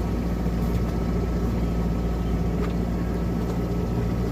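Boat engine running steadily at idle, a constant low drone.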